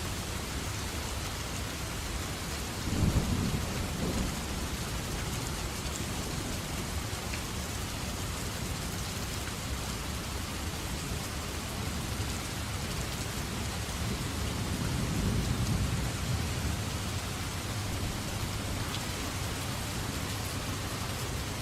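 Steady rain falling, with low rumbles of thunder about three seconds in and again around fifteen seconds in.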